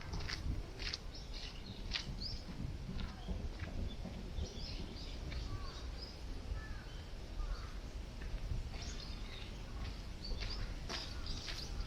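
Strong wind buffeting the microphone as a steady low rumble, with scattered short rustles near the start and end. A few bird chirps sound in the middle.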